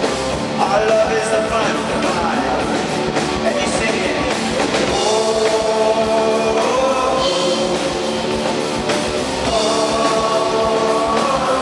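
Rock band playing live, with sung vocals and long held notes over a full band.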